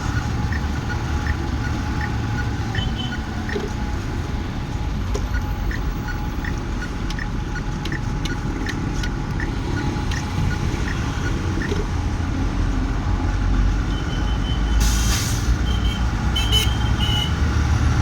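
Truck engine running under way, heard from inside the cab, with the turn indicator ticking about every 0.7 seconds for a left turn onto the highway. About fifteen seconds in there is a short air hiss.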